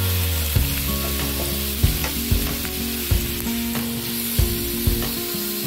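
Sliced onions and peppers sizzling in a frying pan, with a utensil knocking and scraping against the pan several times, over background music.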